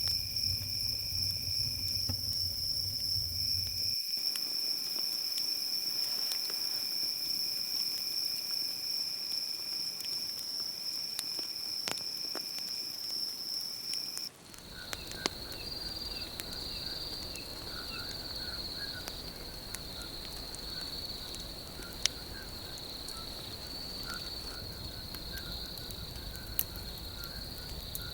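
Night insects, crickets, trilling steadily at a high pitch, with a few sparse clicks. About halfway through the chorus switches abruptly to a slightly lower trill with a quicker pulsing chirp beneath it.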